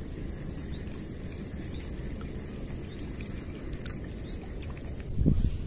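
Faint short bird chirps repeating over a steady low rumble, with a few dull knocks about five seconds in.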